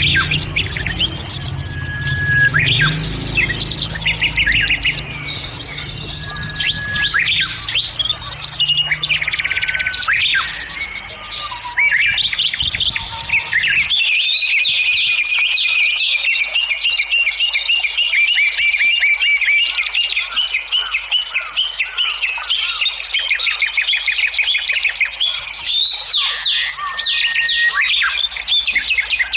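Birds chirping and singing, with many quick whistles and rapid trills. A low hum underneath stops abruptly about halfway through.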